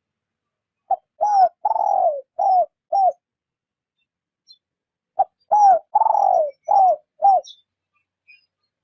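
Spotted dove cooing: two phrases of five notes each, about four seconds apart, each phrase with a longer, drawn-out falling coo in the middle. It is a soft decoy-style coo used to lure wild spotted doves.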